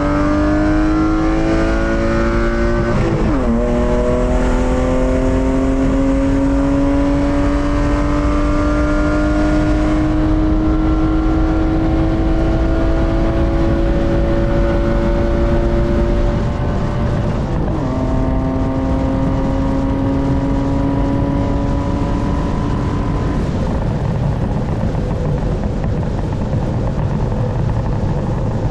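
BMW M52B25 2.5-litre straight-six pulling through the gears. The engine note climbs, dips and recovers quickly about three seconds in with a gear change, then rises slowly for a long stretch. After another shift at about seventeen seconds it holds steady, and for the last few seconds the engine note fades into road and wind noise.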